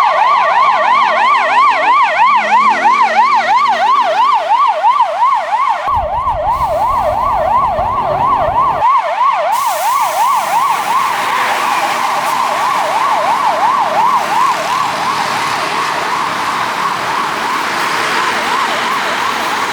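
Ambulance siren in a fast yelp, sweeping up and down about three times a second, over busy street traffic. A low rumble comes in for a few seconds around the middle, and in the second half the siren grows fainter and blurred in the traffic noise.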